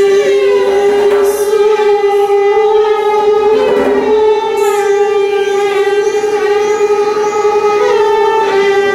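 Violin holding one long sustained bowed note, with brief sliding pitch changes a few times over it.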